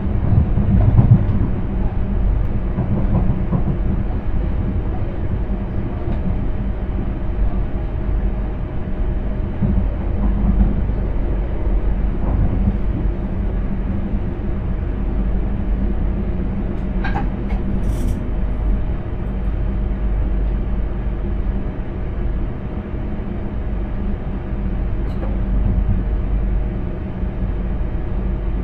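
Intercity train running along the line, heard from inside the driver's cab: a steady low rumble of wheels on track. Two short clicks come a little past halfway.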